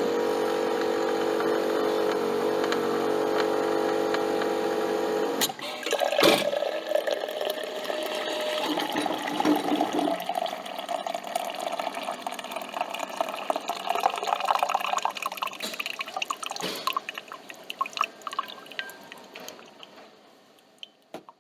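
Coffee machine's pump humming steadily, then stopping about five seconds in. A knock follows, then gurgling, dripping liquid that gradually fades away.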